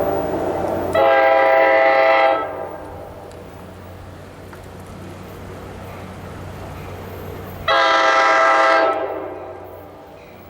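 Train locomotive air horn sounding two long blasts about six seconds apart, each a multi-note chord, over a steady low hum.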